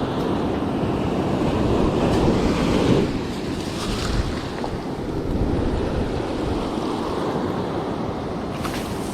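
Beach surf washing in, a steady rush with wind buffeting the microphone; the rush eases about three seconds in. A couple of faint clicks near the end.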